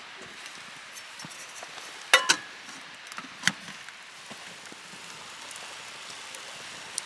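A faint, steady sizzle with scattered small crackles from the fire and food. About two seconds in come two sharp clinks that ring briefly, and a further sharp click follows a second later.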